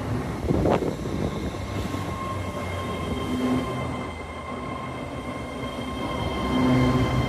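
British Rail Class 158 diesel multiple unit running past, its diesel engine hum mixed with wheel-on-rail noise and a steady high-pitched ringing tone. A sharp knock comes under a second in, and the sound fades slightly mid-way before rising again near the end.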